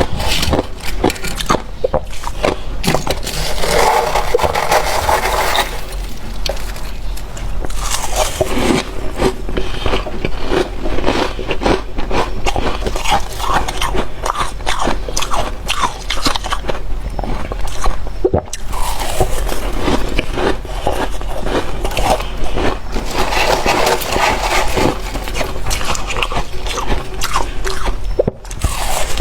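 Close-miked freezer frost being scraped up and crunched in the mouth: a dense, irregular run of crisp scraping and crackling crunches.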